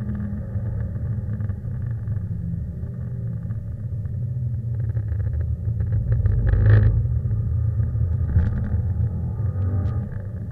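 Subaru Impreza's flat-four boxer engine heard from inside the cabin, a deep steady rumble as the car is driven hard around the circuit, with a brief louder surge about two-thirds of the way through.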